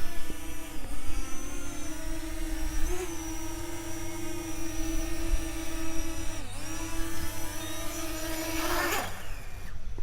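Parrot Anafi quadcopter's four electric rotor motors whining steadily in flight, the pitch dipping briefly three times, then a short rush of noise and the whine cuts off about nine seconds in as the motors stop.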